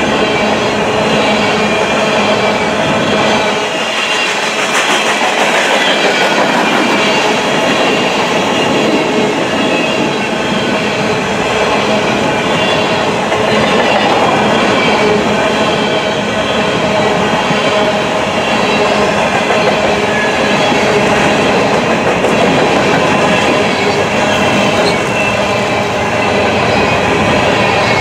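Coal hopper and gondola cars of a long freight train rolling past close by: a steady, loud rumble and clatter of steel wheels on rail, with steady ringing tones from the wheels running through it.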